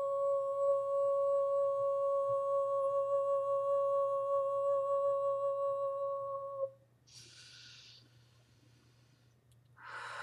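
A woman's hummed vocal tone: one high, steady note with a row of overtones, held and then cut off abruptly about two-thirds of the way in. She takes an audible breath just after it stops, and another near the end.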